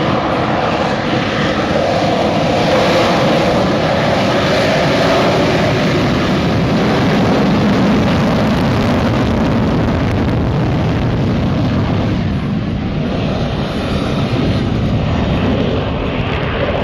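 Loud, steady jet noise from a Lockheed Martin F-35B's Pratt & Whitney F135 afterburning turbofan, the fighter flying overhead.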